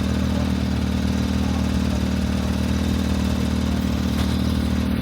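An engine idling steadily, a low, even hum with no revving.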